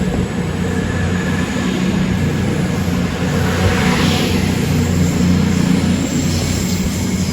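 A train running through a railway station with a steady, loud low engine drone.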